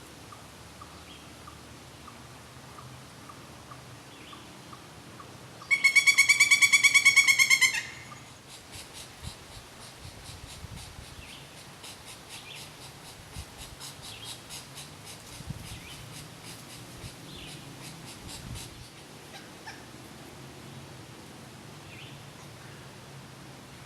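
Pileated woodpecker giving its call, a loud run of quick, evenly spaced 'kuk' notes lasting about two seconds, about six seconds in. After it come about ten seconds of faint, rapid tapping.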